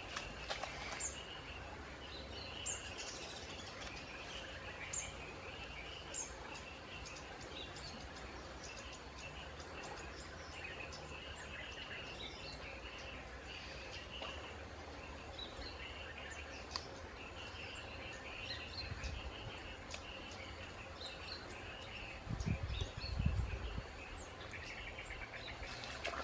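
Outdoor stream-side ambience: birds chirping and calling over a steady natural hiss, with a few sharp high ticks in the first seconds. Near the end comes a cluster of low thumps.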